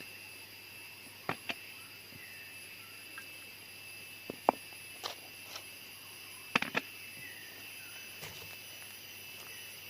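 Steady high-pitched chirring of jungle insects, with scattered sharp clicks and snaps, several in quick pairs.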